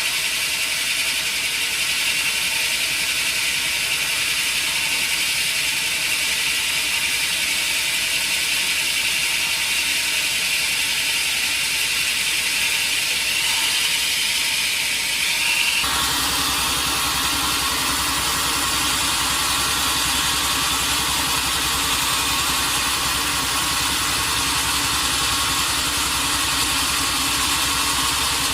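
Sawmill machinery running steadily, with a high hiss in the first half. Over halfway through it changes abruptly to a deeper, engine-like hum.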